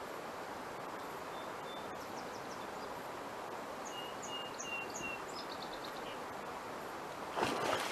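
Steady outdoor background hiss with a few short, high bird chirps in the middle, then near the end a sudden loud splash: a beaver slapping its tail on the water.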